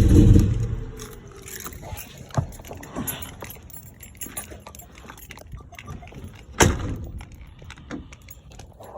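1988 box Chevy engine running, then shut off within the first second, its sound dying away. After that come scattered clicks and knocks, with one sharp click about two-thirds through.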